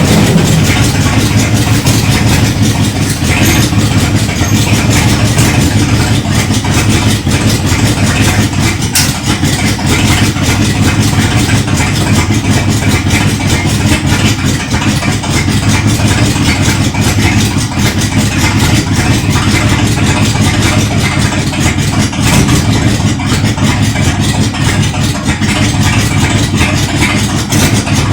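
1978 Dodge Power Wagon engine idling steadily, freshly run up after an oil change.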